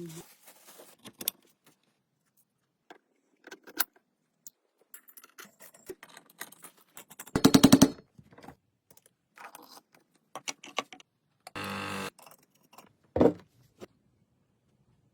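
Intermittent clinking and clattering of metal parts and hand tools being handled. A rapid rattling burst comes about halfway through, and a short steady buzz follows a few seconds later.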